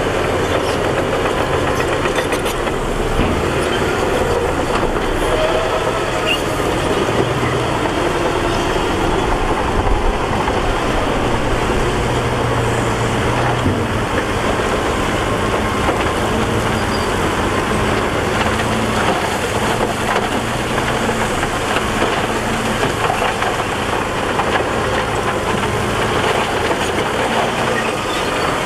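Heavy diesel earthmoving machine running steadily under load, with a continuous metallic clatter over the engine.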